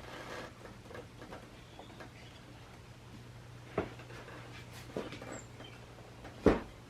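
A few short knocks over a faint, steady low hum; the loudest knock comes near the end.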